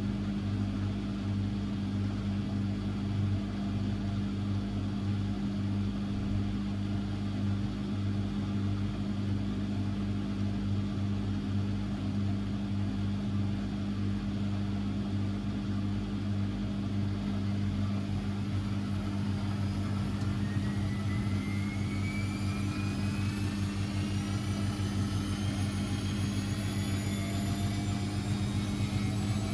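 Constructa Energy 1000s washing machine running with a steady low hum. From about two-thirds of the way in, a motor whine rises steadily in pitch as the drum speeds up.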